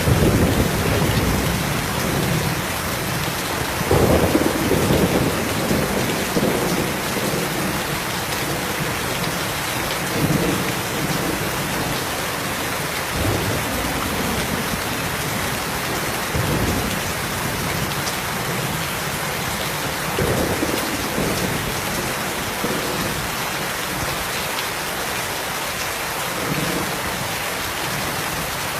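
Steady heavy rain falling, with distant thunder rumbling in low swells, the strongest about four seconds in, easing off later on.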